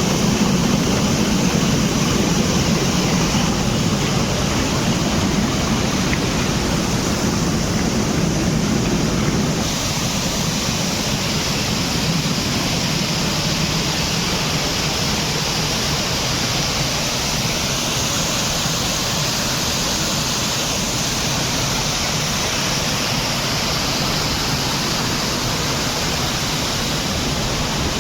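Waterfall in flood, swollen by continuous rain: heavy water pouring down in a dense, steady rush. About ten seconds in it drops a little in level and continues evenly.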